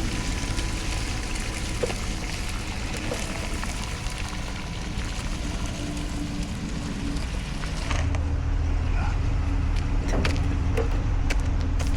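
A work vehicle's engine running steadily under a hiss. About eight seconds in, the hiss drops away and the low engine hum gets stronger.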